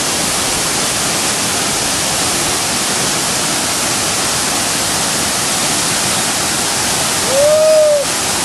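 Waterfall rushing in a steady, loud roar of falling water. Near the end a single short call rises and falls over it.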